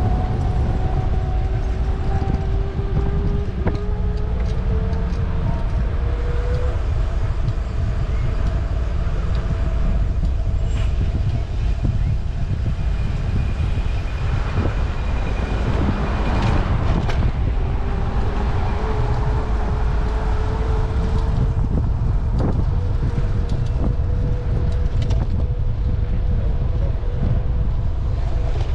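Steady low rumble of wind and road noise from a bicycle ride through city streets. Faint whining tones slide slowly in pitch several times, and a few brief clicks sound.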